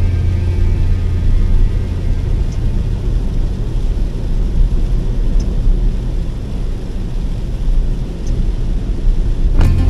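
A vehicle drives along with a steady, loud low rumble of road and engine noise. A faint short tick comes about every three seconds.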